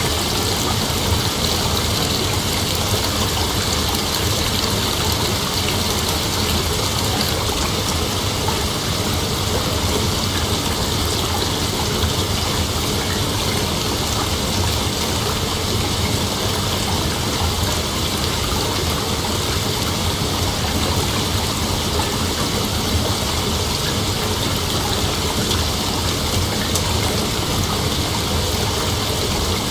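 Steady, unbroken chorus of night insects, a dense even hiss with no breaks or single calls standing out.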